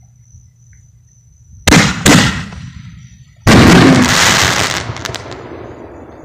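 Aerial fireworks going off: two sharp bangs close together, then about a second later a louder blast followed by a long hiss that slowly fades.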